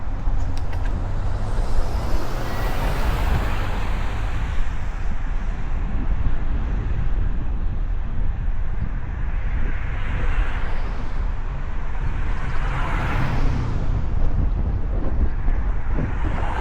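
Wind buffeting the microphone during a road bike ride, a steady deep rumble, while several cars swell past and fade away in traffic.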